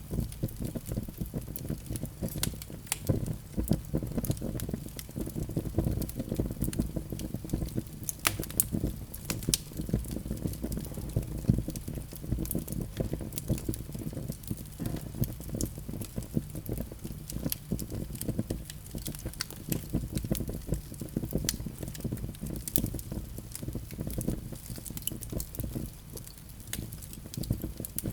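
Fire burning in a fireplace: frequent sharp crackles and pops over a low, fluttering rumble of the flames.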